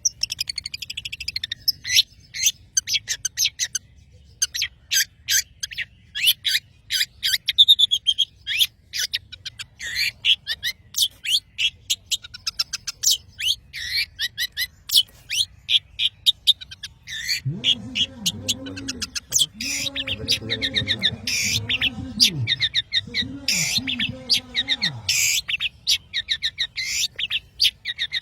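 A long-tailed shrike (cendet) singing vigorously: a fast, unbroken string of short, sharp, chattering notes, several a second. In the second half a lower, wavering sound rises and falls underneath the song for several seconds.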